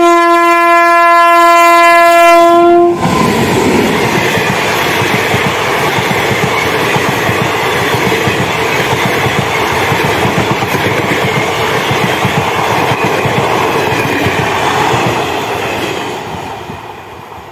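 Indian Railways WAP7 electric locomotive sounding one long steady horn blast for about three seconds as it approaches, then the passenger coaches rushing past with rhythmic wheel clatter over the rail joints, fading out near the end as the train recedes.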